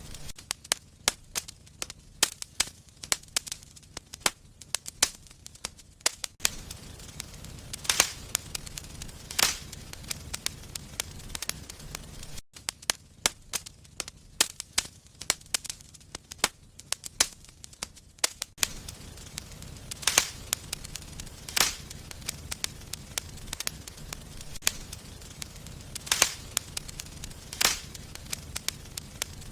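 Wood fire burning in a fireplace, crackling with a dense run of small snaps and, every few seconds, a louder sharp pop.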